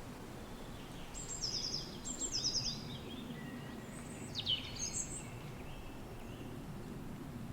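Wind blowing steadily with a low rumble, while a songbird sings two short, quick trills about a second in, then a few sharp downward-slurred chirps around the middle.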